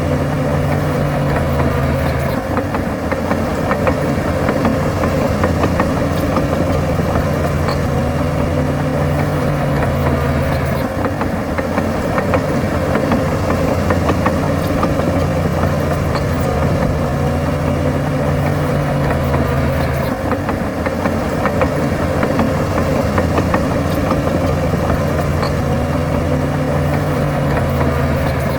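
Bulldozer's diesel engine running steadily under load. Its note shifts to a new level about every nine seconds as the work changes.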